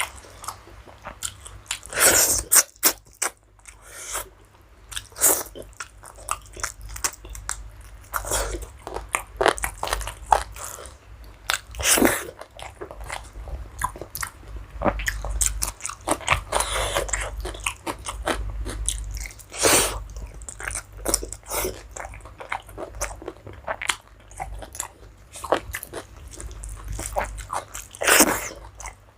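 Close-up eating sounds: a person chewing and biting a meal of rice and curry, with irregular crunchy bites and mouth clicks, a few of them louder than the rest.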